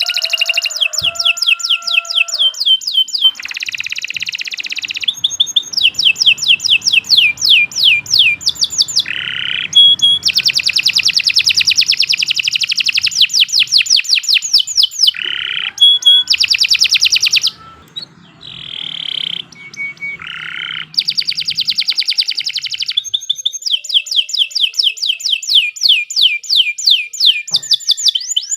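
Domestic canary singing a long, unbroken song of rapid trills, switching to a new trill phrase every second or two, with a short pause about 17 seconds in.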